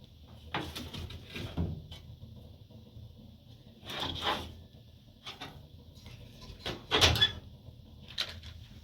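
A few short knocks and scrapes of things being handled, the loudest about seven seconds in.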